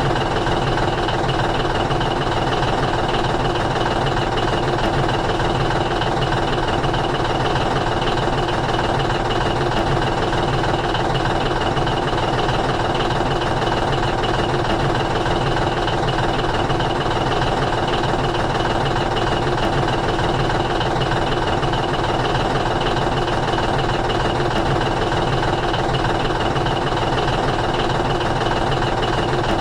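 An engine running steadily at idle, with an even hum and no change in speed.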